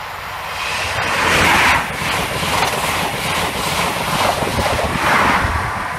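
Passenger train passing close at speed: a loud rush of rolling-wheel noise with rapid clatter from the wheels on the rails, loudest about a second and a half in and again near the end.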